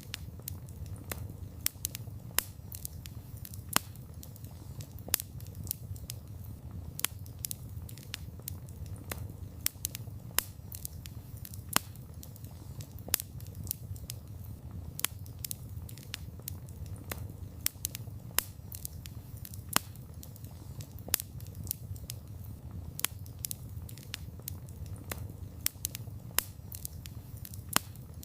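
Wood fire crackling: frequent irregular sharp pops and snaps of burning wood over a steady low rumble of the flames.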